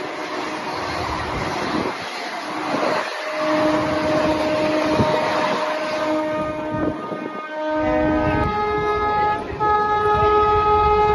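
Rushing, rumbling clatter of Garib Rath Express coaches passing close alongside a moving train, with a train horn sounding in several blasts. From about eight seconds in, a higher-pitched horn is held steadily.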